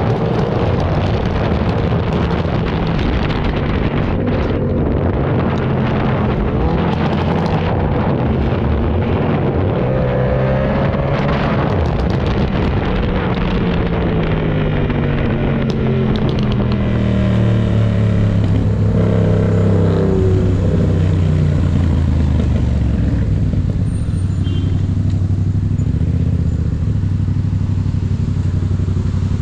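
Yamaha MT-07 parallel-twin engine under way, its pitch rising and falling with throttle and gear changes, then holding a steadier lower note for the second half, with wind noise on the microphone.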